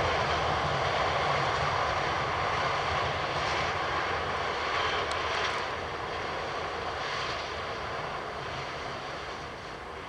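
Diesel-hauled express train running away along the track: a steady rumble of wheels on rail that fades gradually as it recedes.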